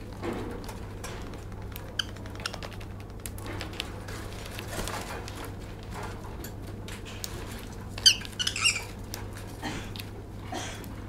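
Lovebird moving about on toilet paper, making light scratching and tapping clicks, with a quick run of short high squeaky chirps about eight seconds in. A steady low hum sits underneath.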